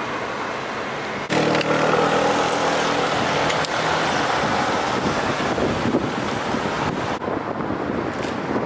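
Road traffic: a motor vehicle's engine running close by, coming in suddenly about a second in, over a steady rush of road and wind noise.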